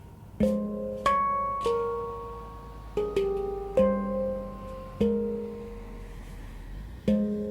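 F minor handpan by Oasis Sound Sculpture played by hand: single notes struck one after another, each ringing out and fading, with a pause of about two seconds before one last note near the end.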